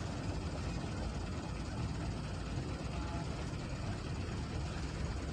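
Hino dump truck's diesel engine running steadily.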